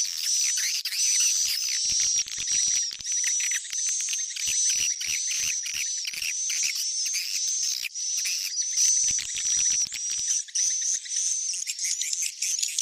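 Swiftlet lure call recording: a dense, high twittering of swiftlet chirps, with a chirp repeating about twice a second over a steady chattering bed. It is the kind of call played in swiftlet houses to draw the birds in to roost and nest.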